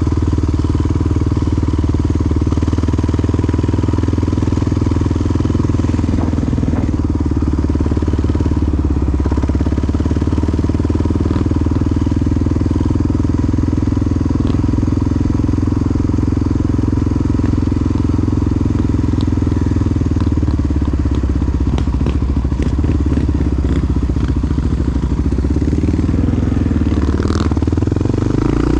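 Big single-cylinder Honda XR dual-sport motorcycle engine running at a steady, even speed, heard from on the bike. A few short clicks and ticks come in the second half.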